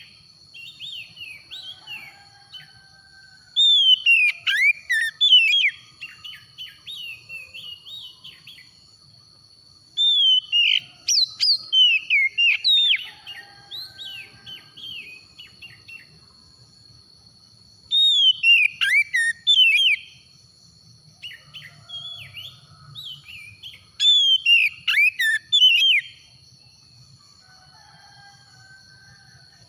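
Oriental magpie-robin singing: four loud bursts of rich, varied whistled phrases, each about two seconds long and coming every six to eight seconds, with quieter twittering between them. A steady thin high-pitched tone runs underneath.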